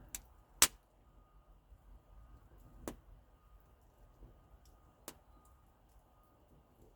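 Campfire crackling: burning wood giving a few sharp, irregular pops, the loudest about half a second in, with faint ticks between.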